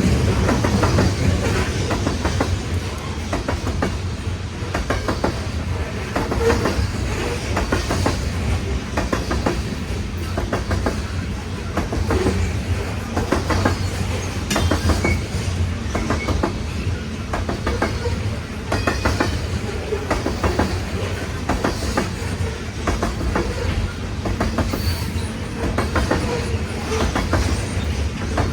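Loaded coal cars of a heavy freight train rolling past, a steady low rumble with the wheels clicking over rail joints again and again.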